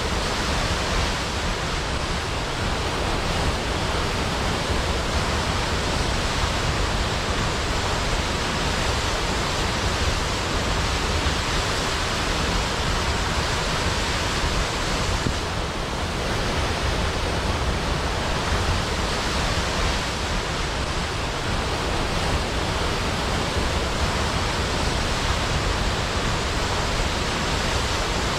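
Large waterfall cascading into a pool: a steady, dense rush of falling water with a deep low rumble.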